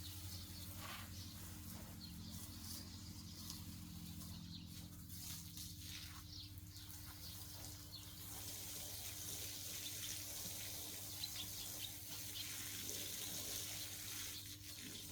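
Water running steadily, getting louder about halfway through, over a faint steady low hum.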